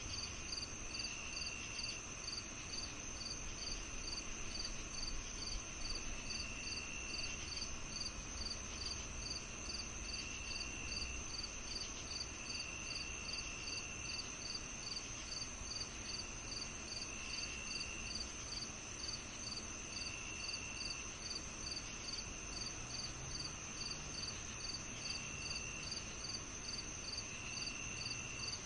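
Summer-evening chorus of crickets and other insects: a steady high trill, one cricket chirping about twice a second, and a lower trill coming in bursts of about a second every few seconds.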